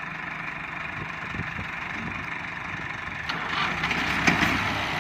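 Diesel tractor engine running, getting louder about three seconds in, with a few sharp knocks near the end, as tractors work to pull a stuck, heavily loaded trolley free.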